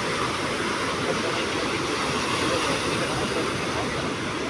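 Steady rushing of sea surf washing onto the shore.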